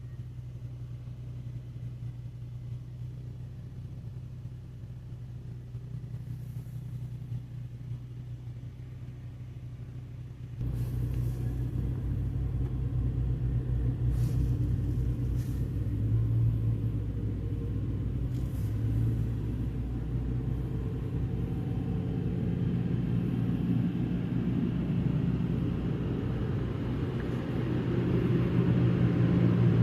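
Automatic car wash heard from inside a car: a steady low hum, then about ten seconds in a sudden step up to a louder, continuous rumble as the wash machinery starts working. A few short hissing bursts follow.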